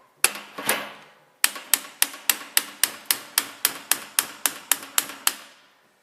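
Hammer tapping gearbox parts home during reassembly: two taps, a short pause, then a steady run of about fifteen quick light strikes, about four a second, each with a brief ring.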